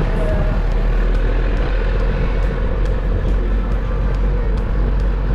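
A motor vehicle running steadily, with a constant low rumble and a faint steady hum.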